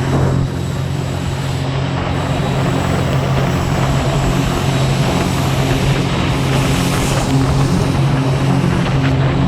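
A Scarab jet boat's Rotax 1503 4-TEC three-cylinder four-stroke engine runs at a steady high speed under way, over a constant rushing noise.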